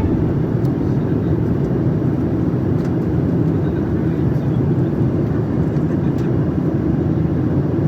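Airliner cabin noise: a steady, even rumble of engines and airflow, with a few faint clicks.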